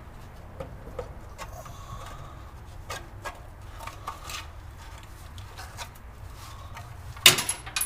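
Small clicks and knocks of things being handled, then about seven seconds in a loud clatter of something falling, with a brief high ring after it.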